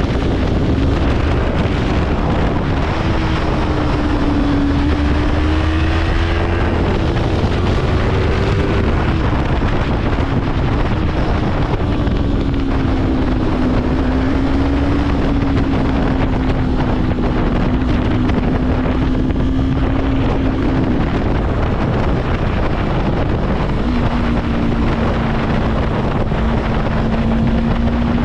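Yamaha YZF-R3 sport motorcycle riding at speed, its parallel-twin engine holding a steady high note that rises and falls a little with the throttle. The note drops away for a few seconds about three-quarters through, then comes back slightly lower and steady. Heavy wind rushes over the microphone throughout.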